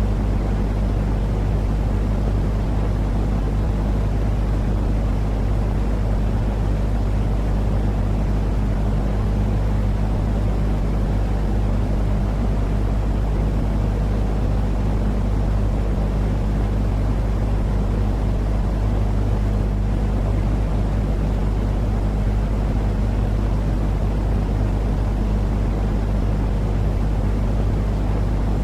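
Continuous sleep noise for soothing a baby: a deep, steady rumble with a low hum running through it, unchanging throughout.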